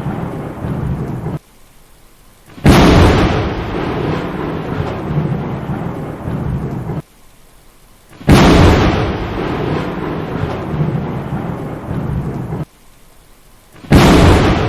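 Thunderstorm: steady rumbling thunder with rain noise. Three times the sound drops out abruptly for about a second and comes back with a sudden loud thunderclap that rolls on into rumble, the pattern repeating about every five and a half seconds.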